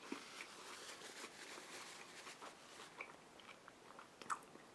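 Faint chewing and mouth sounds of a person eating a mouthful of bread roll topped with fish roe and crawfish tails, with small clicks throughout and one sharper click near the end.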